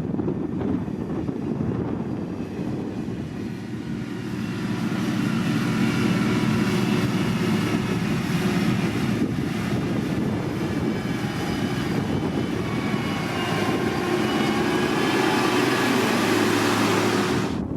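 Diesel engine of heavy road-construction machinery running, getting louder about five seconds in, with a steady whine over the engine note that grows stronger toward the end. It cuts off abruptly at the end.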